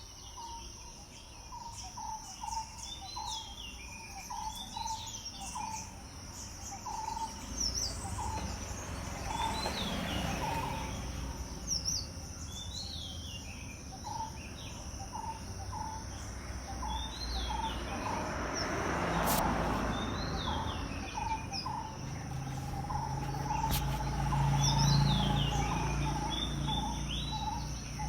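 Outdoor morning birdsong: one bird repeats a short low note over and over, and other birds chirp higher up, over a steady high insect drone. A low rumble swells a few times, loudest near the end.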